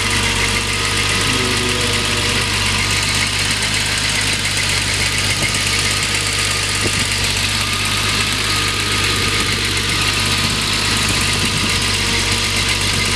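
1993 BMW M5's S38 straight-six engine, with its individual throttle bodies, idling steadily and evenly. It is heard from just above the open engine bay.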